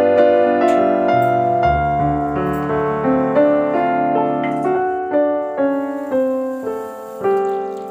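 Background piano music: a slow melody of single notes and chords, each note struck and then fading.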